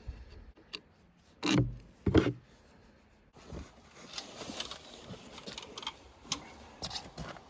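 Hand work on a sawmill engine mount: two heavy knocks about a second and a half and two seconds in, then scattered light clicks and rubbing as the mounting bolts are fitted.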